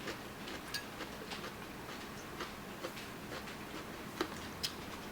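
Eating sounds during a Dungeness crab meal: scattered soft clicks and crackles at an irregular pace, from crab shell being handled and chewing.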